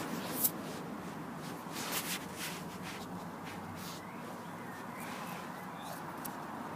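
Cavalier King Charles spaniel chewing on a stick: scattered crunching clicks, the sharpest about half a second in.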